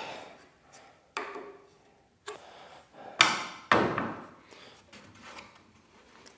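Nail gun firing nails into the wooden bookcase frame: four sharp shots, each dying away quickly, the last two close together.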